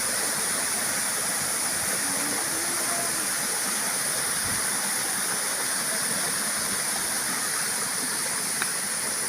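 Waterfall rushing steadily, an even wash of falling water that never lets up.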